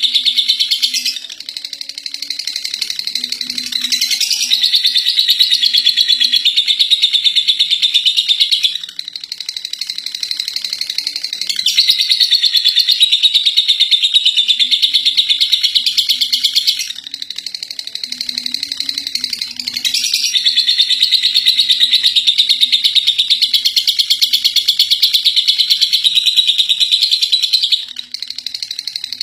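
Lovebird singing its long 'ngekek' song: a rapid, high-pitched chattering trill that runs on unbroken for phrases of five to eight seconds, dipping quieter for a few seconds between them.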